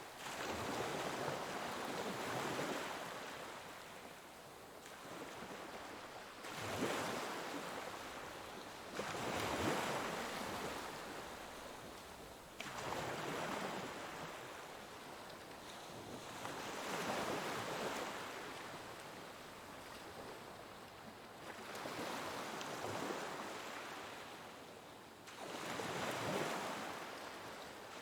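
Ocean waves breaking and washing on a shore, each surge swelling and fading every few seconds.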